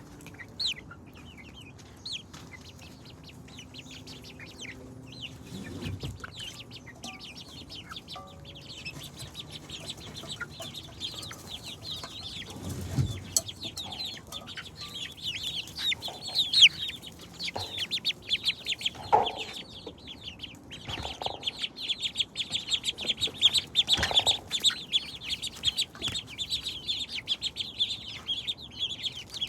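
Chickens clucking and calling, with a dense run of rapid high-pitched chirping that grows thicker after about nine seconds. There are a couple of low thumps.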